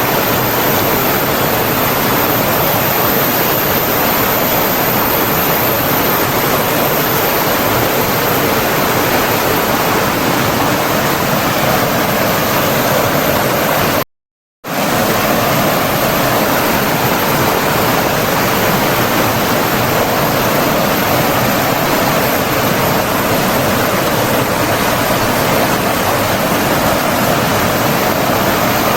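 Steady rush of flowing water. It cuts out completely for about half a second near the middle, then resumes unchanged.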